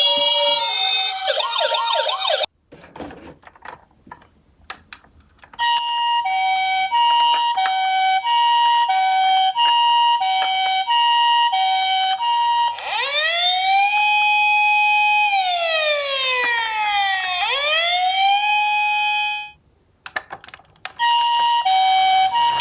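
Toy ambulance minicars' electronic sirens: a two-tone hi-lo siren alternating about twice a second, then a rising and falling wail. They break off twice for a few seconds of small clicks and rattles, and the two-tone comes back near the end.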